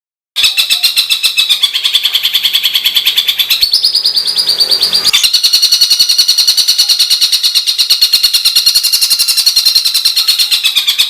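A songbird delivering a long, rough, very fast trill of rapidly repeated notes, the harsh rapid-fire 'tembakan kasar' phrasing prized in Indonesian competition-bird training recordings. The pitch steps up a little about four seconds in and the trill changes texture about a second later, then runs on unbroken.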